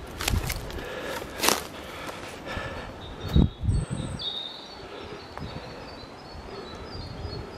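Wind buffeting the microphone in low thumps, with a few rustles in the first seconds, and a small bird singing a rapid run of short high chirps from about three and a half seconds in.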